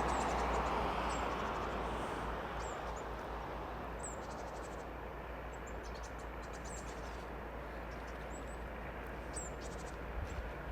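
Rumble of a TU-6A diesel narrow-gauge train that eases off over the first few seconds as it moves away. Short high chirps of small birds come every second or two over a steady low hum.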